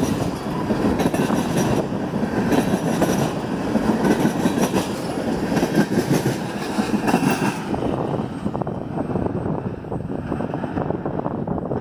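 Freight train of tank cars rolling past close by: a steady rumble of steel wheels on rail with rapid clicking over the rail joints. About eight seconds in, the higher hiss drops away and the sound turns duller as the cars recede.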